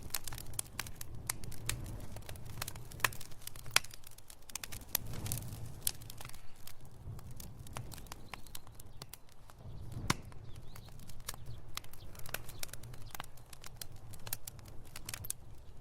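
Wood fire crackling: irregular sharp pops and snaps over a low, steady rumble of flames, with one louder pop about ten seconds in.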